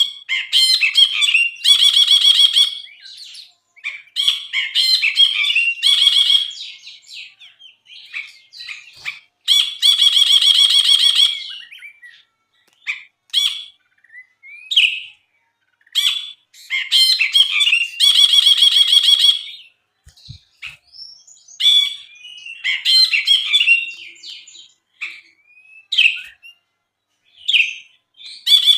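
Brinji (a bulbul) singing: varied short chirps and whistled notes broken by a long, fast, buzzy trill that comes back about every eight seconds.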